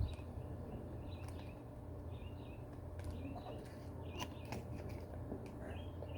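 Faint bird chirps, short calls repeated every second or so, over a steady low hum, with a few small clicks.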